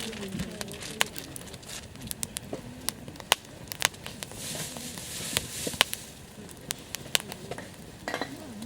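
Wood campfire crackling, with sharp pops at irregular intervals over a soft hiss that swells briefly midway.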